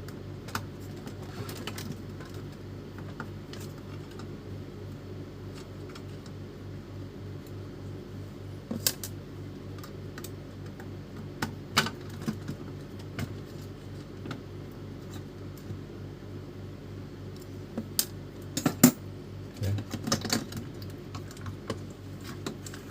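Scattered clicks and taps of printer parts being handled during a motor swap, over a steady low hum, with a cluster of louder clicks near the end.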